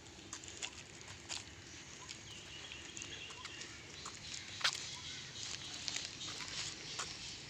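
Birds chirping with scattered sharp clicks and ticks, one louder click near the middle.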